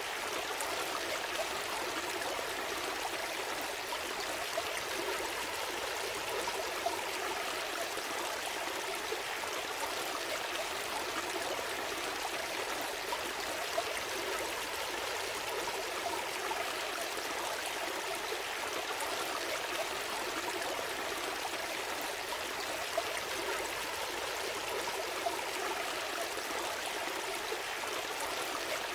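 Shallow stream flowing and babbling steadily, with small splashes and trickles now and then.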